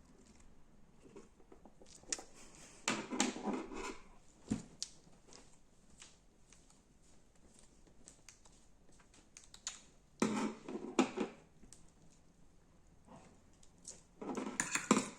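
Slime being squeezed and pressed by hand, crackling and clicking in three louder spells, about three seconds in, around ten seconds and near the end, with scattered small clicks between.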